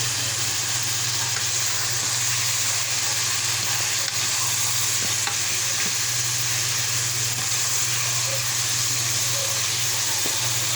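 Cubed chicken frying in hot oil in a pan, a steady sizzle with a few faint ticks, over a constant low hum.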